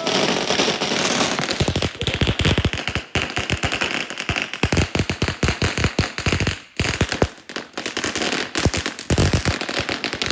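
Consumer firework barrage firing a rapid string of bangs and crackles, shot after shot with only brief gaps, described as the loudest thing ever heard.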